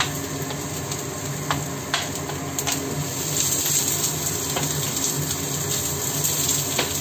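Sliced red onion, garlic and lemon sizzling as they fry in a hot stone-coated frying pan and are stirred with a wooden spatula, which knocks against the pan a few times.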